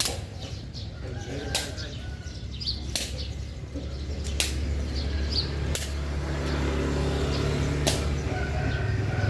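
Sharp single hits, one about every second and a half, over a low buffeting rumble that grows louder about halfway through.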